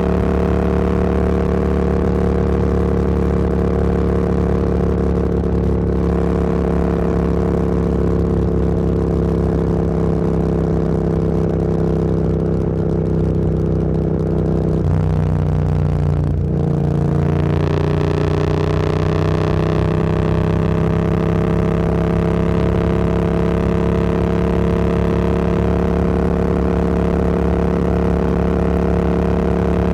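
Motorcycle engine under way, its note easing slowly downward, then a brief break about halfway through followed by a rising pitch as the bike accelerates, most likely a gear change.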